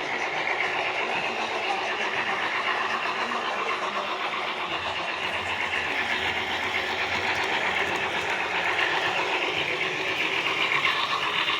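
HO scale model train running on the layout track: a steady electric motor whir with the rapid clatter of small metal wheels on the rails.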